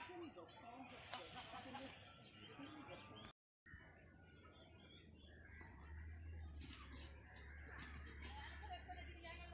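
Steady high-pitched buzzing of an insect chorus, cutting out briefly about three seconds in and carrying on more quietly after.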